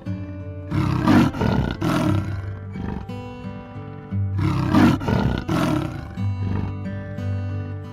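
A big cat roaring in two bouts, about a second in and again near the middle, each bout a pair of rough roars, over background music.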